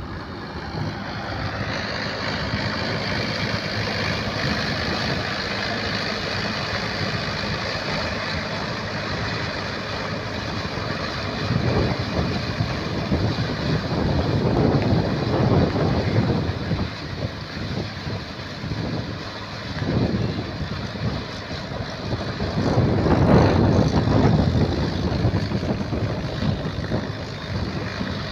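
Tractor engine running steadily, with several louder rushing surges in the second half.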